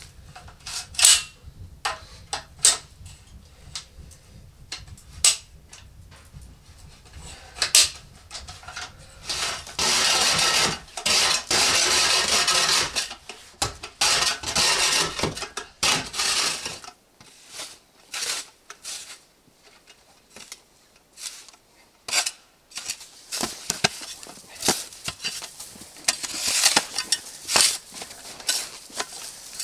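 Hands-on work noises: a series of sharp clicks and knocks, with several stretches of scraping or rustling in the middle, over a low steady hum that stops about two-thirds of the way through.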